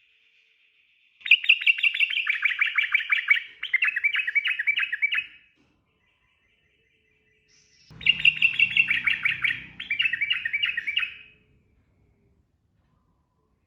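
Sooty-headed bulbul (trucukan) singing its rapid rolling song: two long bursts of fast repeated chattering notes, each lasting about four seconds, with a pause between them.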